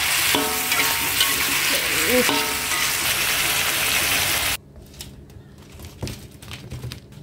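Salted fish with chillies and garlic sizzling in a steel wok, stirred with a metal spatula; the sizzle cuts off suddenly about four and a half seconds in. Quieter clinks and knocks follow as fried tempeh is tipped from a metal strainer onto a plate.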